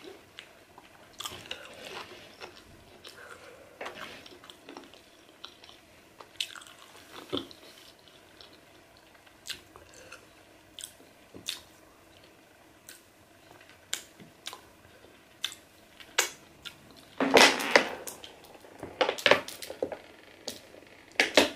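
Close-miked eating sounds: wet chewing and soft mouth clicks while eating pieces of pork in pepper soup. In the last few seconds come louder sounds of a plastic water bottle being handled and drunk from.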